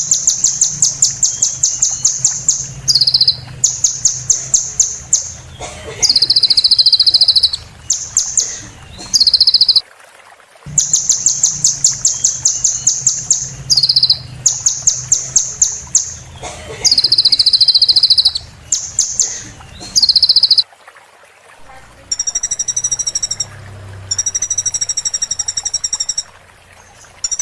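Recorded song of a small songbird of the kind Indonesian bird-keepers call kolibri (a sunbird), played as a training track: high, rapid trilled phrases of one to two seconds separated by short breaks, with the same sequence coming round again about ten seconds later. Near the end it changes to a fast run of steady, high repeated notes.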